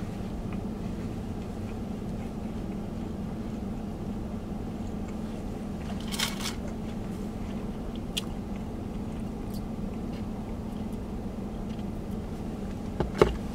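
A person chewing food close to the microphone, with a short crunchy burst about six seconds in and a sharp click near the end, over a steady low hum inside the vehicle cab.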